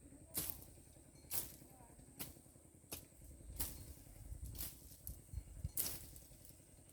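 Weeds being chopped by hand with a bladed tool, about seven sharp strokes at an uneven pace of roughly one a second.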